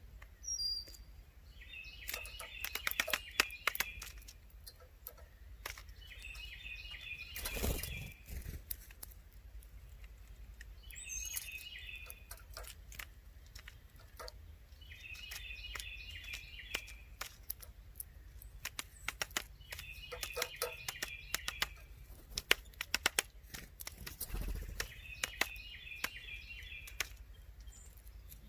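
Woodpecker tapping in bouts of rapid sharp knocks that come back about every four to five seconds, with short high bird notes. There is a brief louder rush of noise about eight seconds in.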